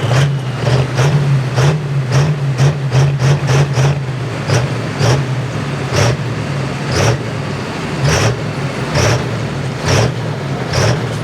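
Diesel pulling truck's engine running at a steady low drone, punctuated by sharp pops that come rapidly at first and slow to about one a second after a few seconds.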